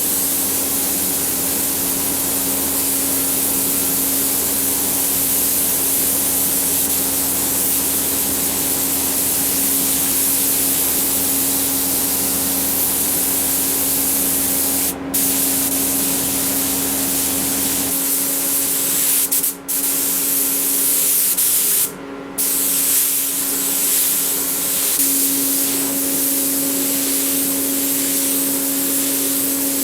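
Compressed-air spray gun hissing steadily, with the trigger let off briefly about three times, over a steady hum.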